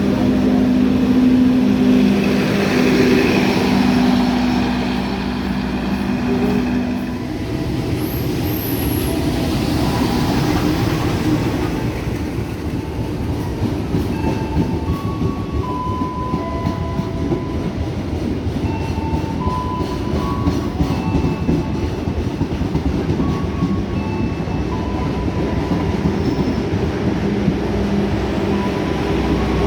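A train passing close by, with a steady, low two-note tone for about the first seven seconds, then a continuous rumble and clatter of wheels on the rails.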